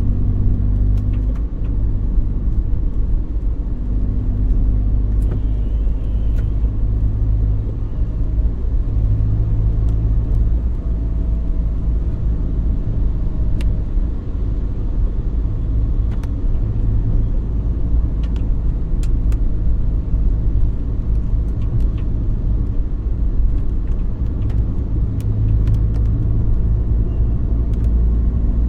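Car on the move: a steady, loud low engine and road rumble, its hum shifting slightly in pitch, with scattered faint clicks.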